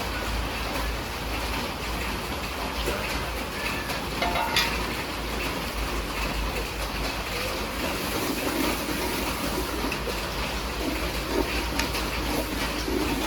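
Heavy rain falling steadily, a constant rushing hiss, with a brief clink about four and a half seconds in.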